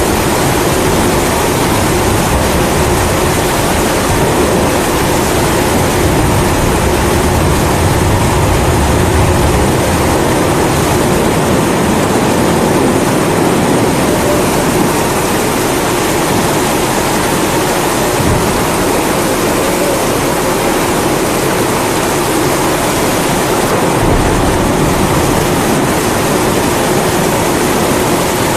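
Kerosene pressure stove (primus) burning with a steady hissing roar and a humming tone, mixed with the even hiss of rain.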